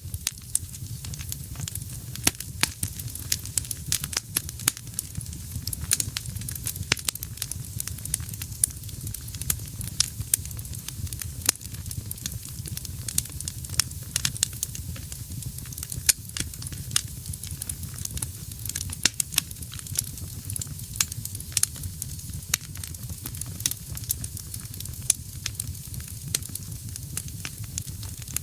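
Wood fire burning in a fireplace: frequent sharp, irregular crackles and pops over a steady low rumble of flame.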